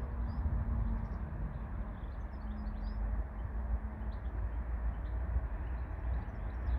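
Small birds chirping faintly, a few short high chirps at a time, over a steady low rumble. A low hum runs under it and fades about four seconds in.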